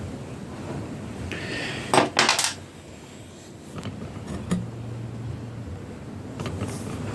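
Metal tools or parts clattering and clinking, set down or handled: a loud burst of clatter about two seconds in, then a single lighter clink a couple of seconds later.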